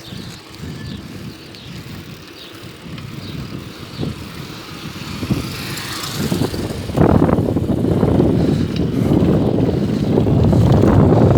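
Wind buffeting the microphone while riding a bicycle, a low rumble that gets clearly louder about seven seconds in as the ride picks up speed.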